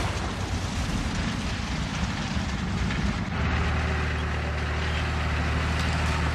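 Engine running steadily, a continuous drone that settles into an even low hum about halfway through.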